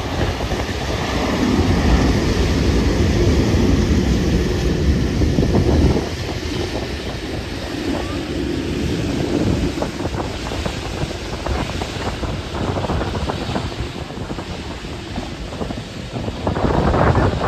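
Strong wind buffeting the microphone in uneven gusts, with a louder gust near the end. Under it a faint steady whine fades out about seven seconds in.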